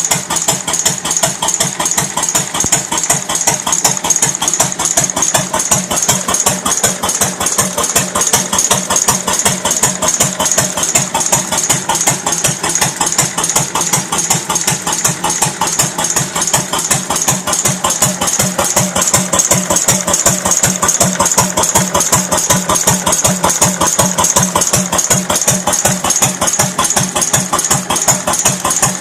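1950 Cooper XD 4 hp stationary engine running steadily at idle, with an even, rapid firing beat.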